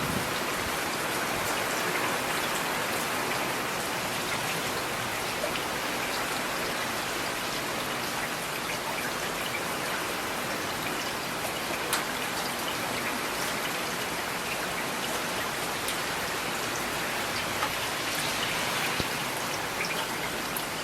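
Steady rain falling, an even hiss of many drops with scattered sharper drop ticks.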